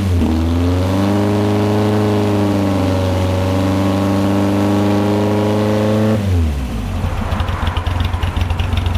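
Datsun CSP311 Silvia's engine running through a side-exit exhaust, held at steady raised revs, then dropping back to a lumpy idle a little over six seconds in.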